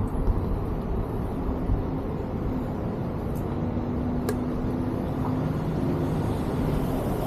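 Steady road-traffic and riding noise: a low rumble with a faint engine hum from motor vehicles, and two light clicks about three and four seconds in.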